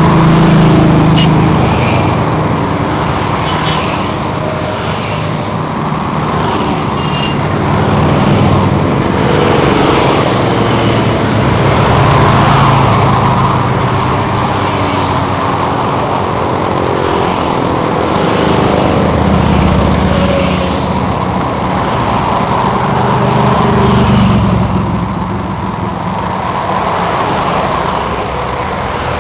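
Motorcycle engines running continuously at road speed, the engine note swelling and easing every few seconds, with a dense rushing noise over it.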